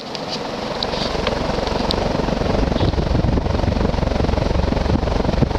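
Moss WF Series 42-inch ceiling fan, built by Wing-TAT with an oversized 52-inch motor, running fast on high speed: a dense low rush of moving air with a fluttering chop from the blades, growing louder over the first couple of seconds and then holding steady.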